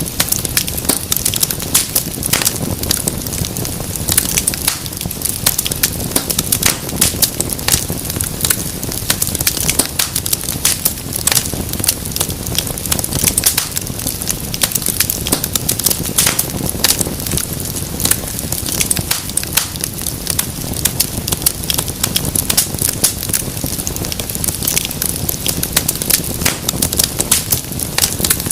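Fireplace fire crackling: many irregular pops and snaps over a steady low rush of flame.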